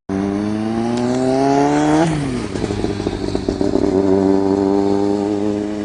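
1998 Kawasaki ZX-6R inline-four with an aftermarket Urban GP exhaust accelerating, its pitch climbing for about two seconds and then dropping sharply. A rough, crackly stretch follows before the engine settles into a steadier, slowly rising note.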